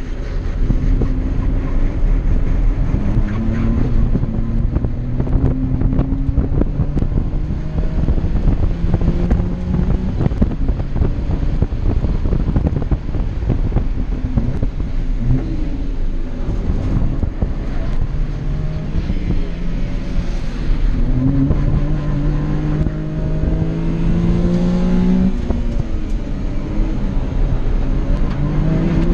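Kei car's engine heard inside the cabin under race driving, climbing in pitch as it revs and dropping back at each gear change, several times over, with road and wind noise.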